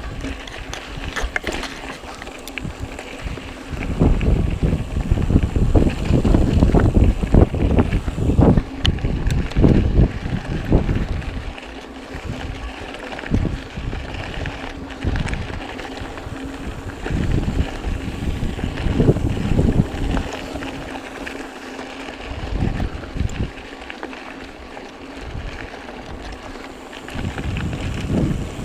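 Wind buffeting the microphone during a mountain bike ride, swelling and dropping in gusts, with the bike clattering and knocking over rough trail.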